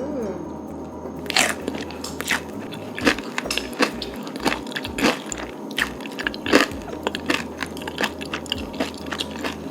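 Close-miked mouth sounds of a person eating: chewing with an irregular run of wet clicks and smacks, starting about a second in.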